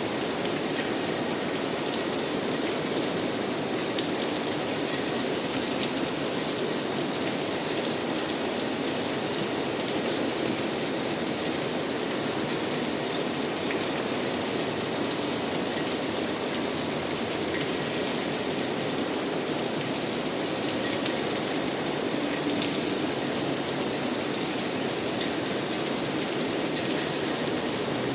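Steady rain falling and pattering on surfaces, an even rushing hiss with no let-up.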